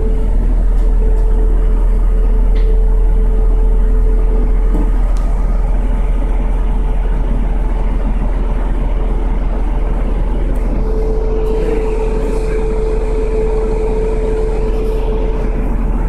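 City bus diesel engine running, a steady low drone with a steady whine above it that grows louder about eleven seconds in.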